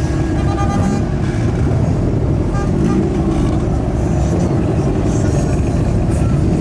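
Vehicle engines running loudly, with a few rises in pitch as they are revved.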